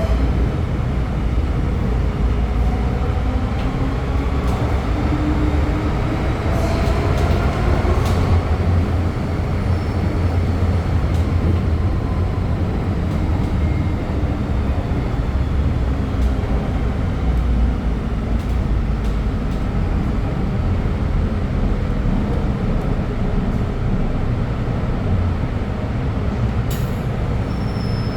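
Inside an MTR M-train car running between stations: a steady, loud rumble of wheels on track, with faint motor tones gliding in pitch during the first third and a few sharp clicks from the running gear.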